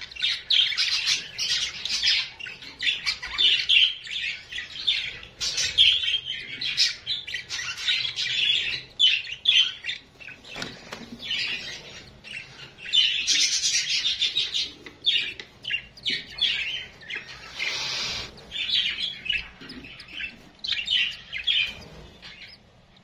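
Small cage birds chirping and chattering in quick, dense runs, with a brief rustle about three-quarters of the way through.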